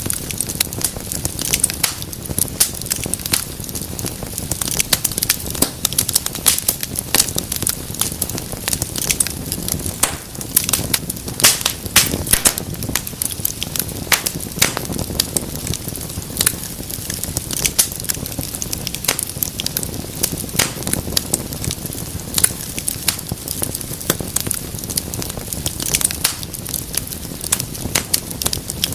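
Wood fire burning in a fireplace, crackling and popping irregularly and continuously over a low steady rumble of flames.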